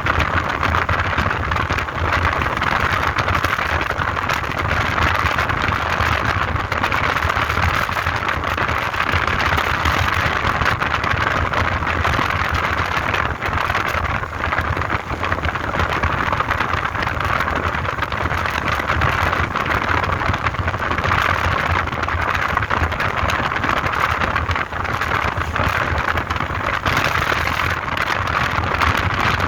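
Motorbike under way: a steady rush of wind and road noise with the engine running underneath, unchanging throughout.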